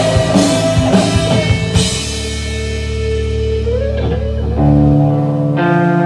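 Live rock band playing electric guitar, bass and drums. The drums stop about two seconds in, leaving held guitar chords over a low sustained note, and new plucked guitar chords come in near the end.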